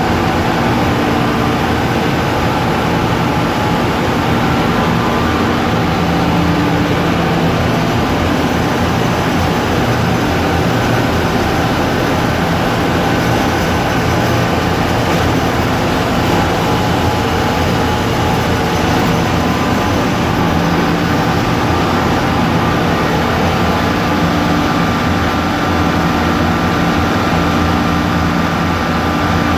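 Ship's engine room machinery running: a loud, steady din of diesel engines and auxiliaries, with several held tones over a broad roar.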